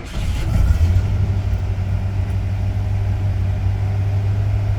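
Ford Bronco engine catching and running, rising briefly in the first second and then settling to a steady, fast idle. It is still idling high, which the owner thinks could be a vacuum leak.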